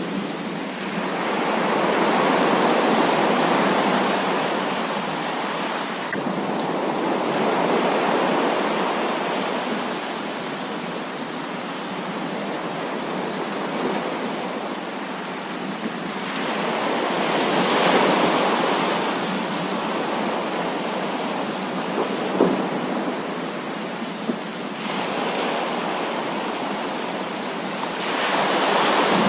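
Heavy rain pouring steadily, with several slow swells of rolling thunder. A couple of sharp cracks come a little past the middle.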